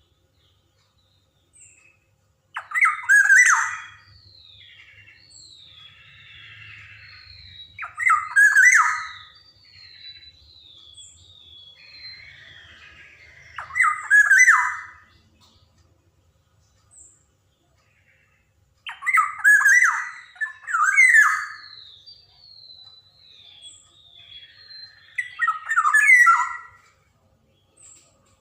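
Black-naped oriole (kepodang) calling: five loud, harsh calls at intervals of about five to six seconds, with strings of short, thin falling notes in between.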